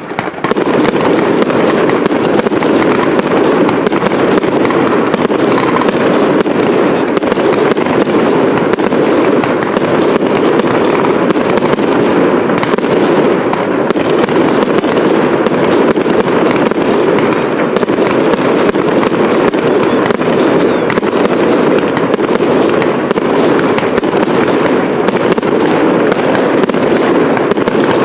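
Professional fireworks display: aerial shells bursting over a blazing ground fountain, in a dense, unbroken barrage of crackles and bangs. It comes in at full strength just after the start and keeps up steadily.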